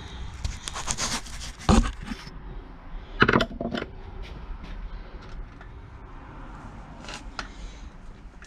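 Metal engine parts and tools being handled on a workbench during a small-engine teardown: a run of clinks, knocks and scrapes. The two loudest knocks come about two and three seconds in, followed by lighter ticks.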